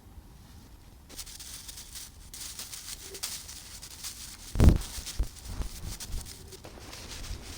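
Rustling and crackling begins about a second in, with a single dull thump about four and a half seconds in.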